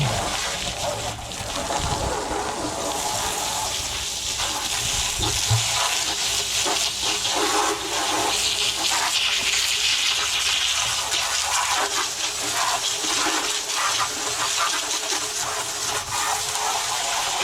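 Steady rushing, splashing water, with many small clicks and splashes through it.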